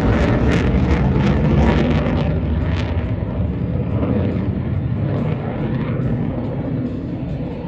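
F-35B Lightning II's jet engine, a Pratt & Whitney F135, heard in flight. It is loud and crackling at first, then fades and loses its high end as the aircraft draws away.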